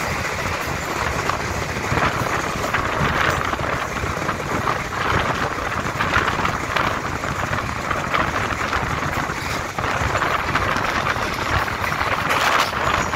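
Diesel passenger train running at speed: a steady rumble and rattle of the train on the track, with scattered irregular clicks.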